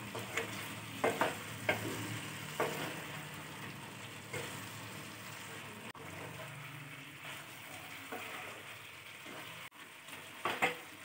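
Chicken pieces and spice masala sizzling as they are sautéed in a non-stick kadai, with a spatula scraping and knocking against the pan now and then. The masala is being fried until its raw smell is gone.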